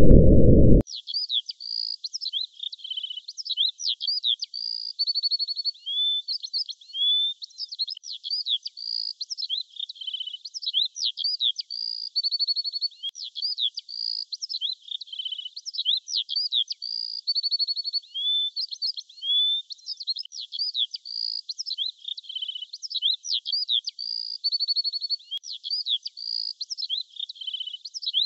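A low rushing noise cuts off about a second in, giving way to birdsong: high, thin chirps, quick whistled sweeps and short rattling trills, the same run of phrases coming round every six or seven seconds.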